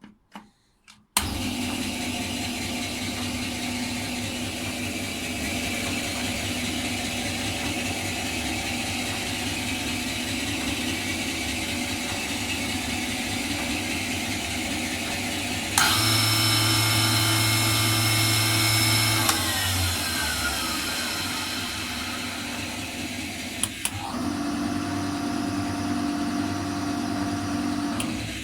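Caorle TS 125 M brake lathe switched on about a second in and running with a steady motor hum and whine. About halfway through it gets louder with a higher whine, one tone winds down a few seconds later, and the sound changes again a few seconds before the end.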